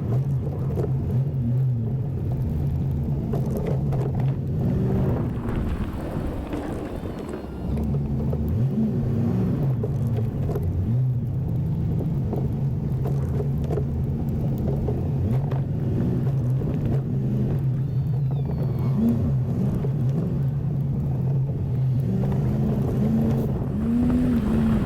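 Chevy 1500 pickup's engine running while plowing snow, its pitch rising and falling as the truck works, with the engine revving up about a third of the way in and again near the end.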